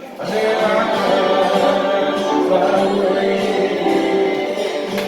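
A gospel hymn sung by a group of voices, with long held notes.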